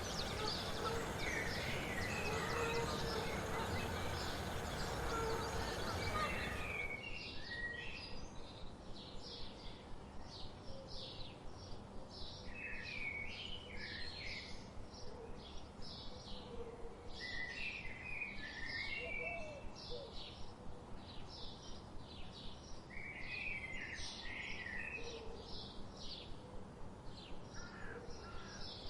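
Songbirds chirping: rapid runs of short, high chirps with warbled phrases every few seconds. For the first seven seconds the birds sit over a louder background hiss, which cuts off abruptly.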